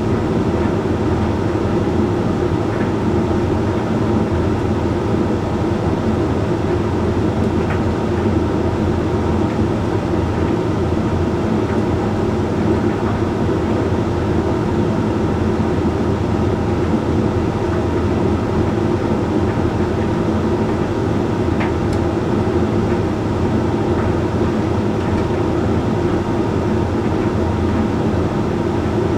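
Hoover Link X Care HLX C10DRGR condenser tumble dryer running steadily late in its Whites cycle, with a constant hum from the motor, drum and fan. A few faint ticks sound now and then.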